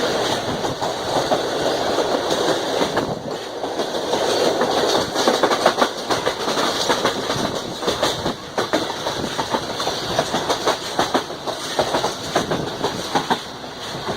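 Railway wagon wheels clattering over rail joints as a train runs close by, a dense run of clicks and knocks over a steady rumble.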